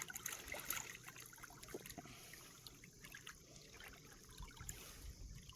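Faint lapping and trickling of shallow water, with scattered small drips and ticks.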